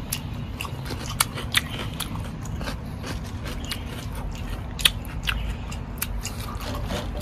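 A person chewing close to the microphone, with irregular crisp crunches from biting into a fresh cucumber slice.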